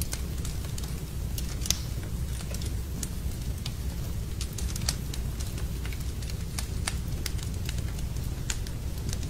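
Wood fire burning in a fireplace: irregular crackles and sharp pops over a steady low rumble, with the loudest pops about 1.7 and 4.9 seconds in.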